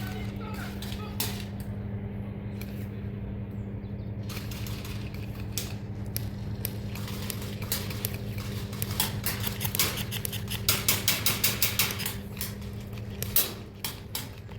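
Airsoft guns firing: scattered sharp clicks and snaps, growing busier in the second half, with a quick run of about four shots a second near the end, over a steady low hum.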